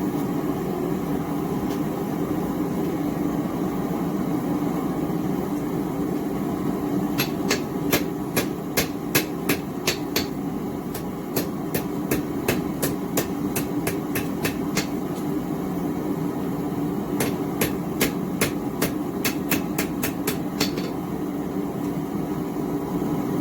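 A hand hammer striking steel on an anvil in three quick runs of blows, about three a second, with short pauses between the runs. Under it runs the steady rushing noise of a small gas forge burner.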